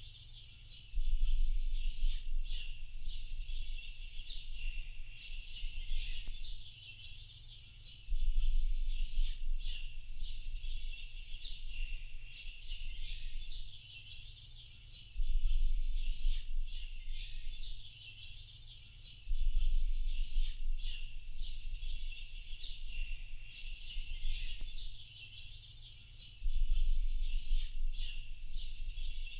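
Dense chorus of many small birds chirping and twittering without a break. A low rumble cuts in suddenly for stretches of four to five seconds, about every seven seconds, and is the loudest thing when it is there.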